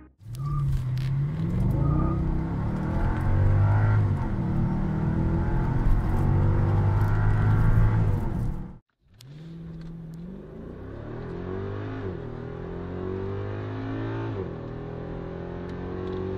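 Mercedes CLS 55 AMG's supercharged V8 at full throttle, revs climbing and dropping back at each upshift; after a short break about nine seconds in, a quieter run of a CLS 63 AMG's naturally aspirated 6.2-litre V8 accelerating hard through the gears the same way.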